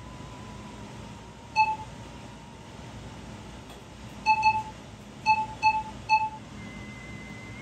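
Short electronic beeps, six in all, some in quick pairs, over a thin steady electronic tone that steps up in pitch near the end.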